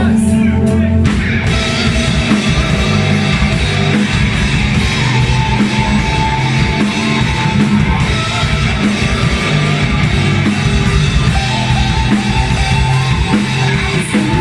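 Live rock band playing loudly, with electric guitars and drum kit, the full band coming in harder about a second in.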